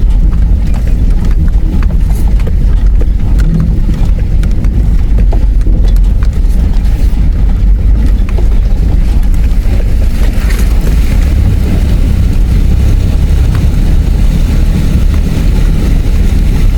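4WD vehicle running steadily in four-wheel-drive high range through a river crossing, a loud, continuous low rumble with small knocks from the rough track. A brief hiss about ten seconds in.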